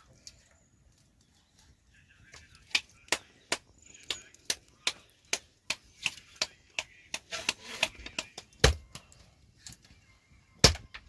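A series of sharp knocks or taps, irregular at about two to three a second, starting about three seconds in; the loudest knock comes near the end.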